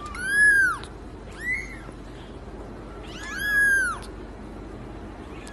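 A cat meowing: three calls that rise and fall in pitch, a short one about a second in between two longer ones, the last and longest near the middle.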